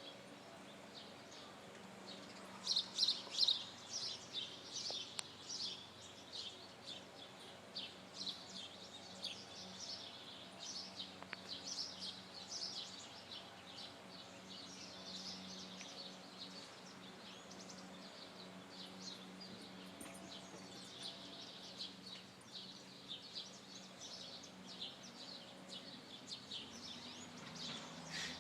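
Small birds chirping in quick bursts of high notes throughout, loudest about three seconds in.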